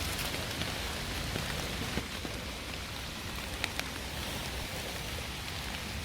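Steady rain falling, with a few sharper drop taps.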